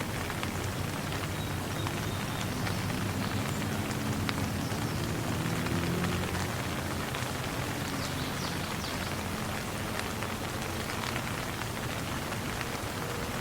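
Steady rain falling, an even hiss of many drops with scattered small ticks, and a low rumble that swells slightly in the first half and then fades.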